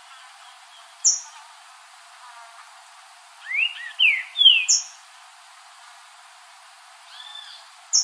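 Green-winged saltator (trinca-ferro) singing one phrase of three loud slurred whistles about halfway through, with a fainter note near the end. Short, sharp high-pitched chips sound about a second in and again at the end.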